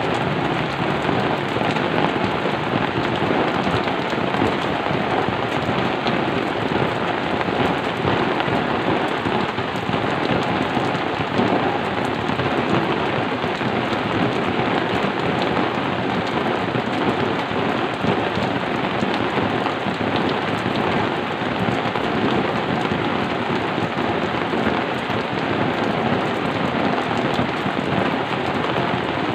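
Steady rain falling, an even continuous hiss of rain.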